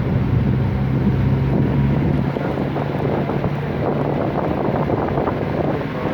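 Vehicle engine hum under heavy wind noise buffeting the microphone; the steady hum fades about four seconds in while the rushing noise goes on.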